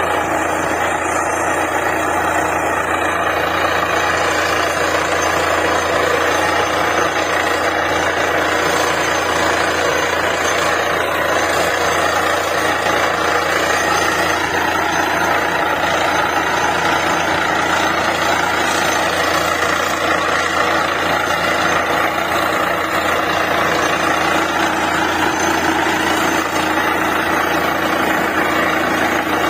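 Borewell drilling rig running steadily and loudly, with a constant deep hum under a dense machine noise.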